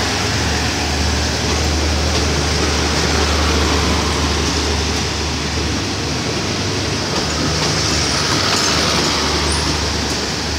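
Passenger coaches of an express train rolling past at close range: a steady rumble of wheels on rail with a strong low hum underneath and a few faint clicks.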